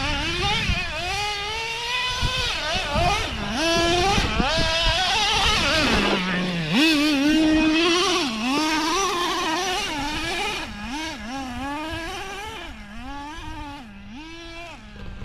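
A radio-controlled car's motor revving up and down over and over as the car is driven hard, with rough scrabbling noise from the tyres on loose ground in the first few seconds.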